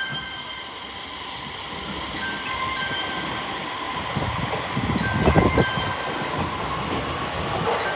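Electric train running into the station, growing steadily louder, with wheels clattering over rail joints about five seconds in and thin high squeals from the wheels or brakes.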